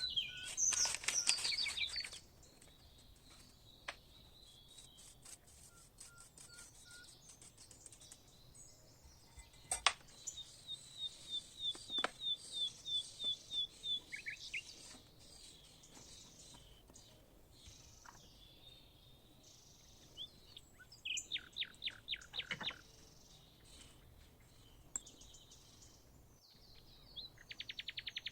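Songbirds chirping and singing, with runs of quick, evenly spaced high notes, and a single sharp click about ten seconds in.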